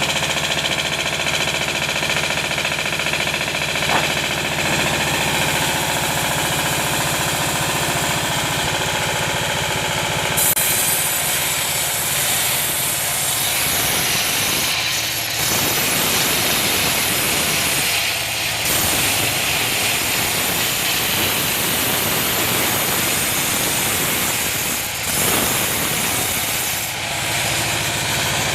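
Engine-driven sawmill saw running and cutting through a johar (juar) log. About a third of the way in, a loud hiss of the blade in the wood takes over from the engine note, dropping briefly a few times.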